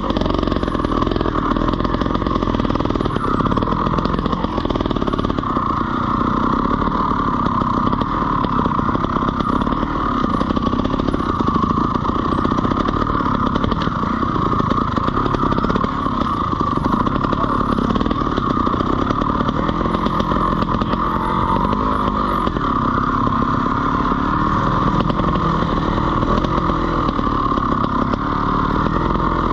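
Beta Evo 125 trials motorcycle's two-stroke single-cylinder engine running without a break as it is ridden. The engine note rises and falls over and over with the throttle.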